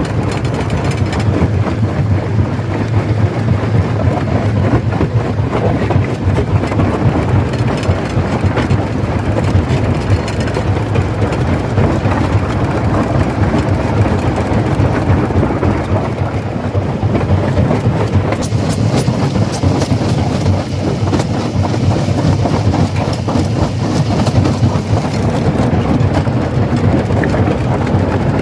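Stone crusher running under load, a continuous heavy rumble with dense cracking and grinding of rocks being broken. The sharp crackling grows brighter and busier past the middle.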